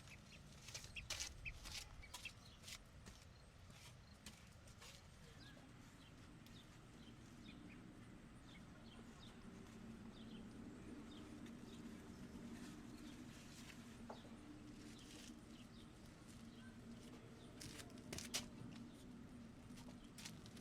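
Chickens clucking faintly, with scattered light clicks and taps that are thickest in the first few seconds and again near the end.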